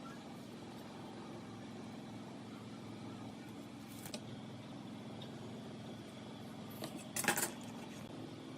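A motor hums steadily, with a single click about four seconds in and a quick burst of sharp knocks about seven seconds in.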